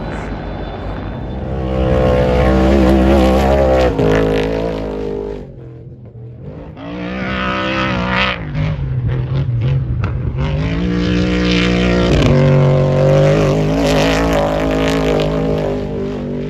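Race vehicle engines running hard, their pitch rising and falling as they rev and pass. One loud burst stops abruptly about four seconds in, and a second long run starts a few seconds later and lasts nearly to the end.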